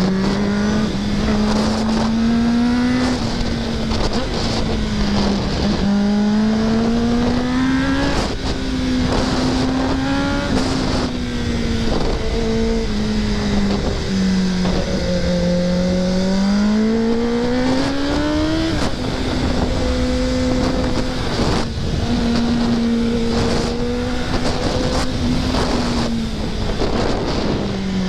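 2024 Kawasaki ZX-10R's inline-four engine pulling through a canyon ride: the revs climb and drop several times as it shifts and rolls on and off, with a long climb just past the middle, then it holds a steady pitch for several seconds before easing off near the end. Wind rushes steadily over the microphone.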